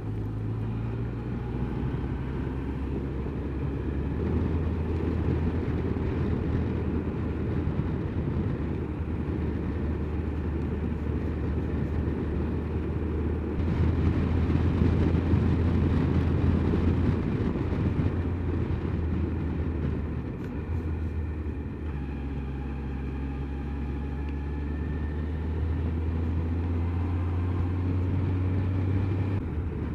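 Honda CBF motorcycle engine running steadily at road speed, with wind rushing over the microphone; the engine pitch shifts a few times and the wind swells for a few seconds about halfway through.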